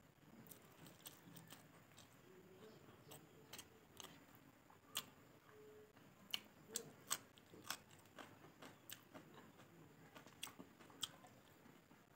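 A person chewing mouthfuls of rice and pork, with irregular smacking clicks from the mouth, a few much louder than the rest.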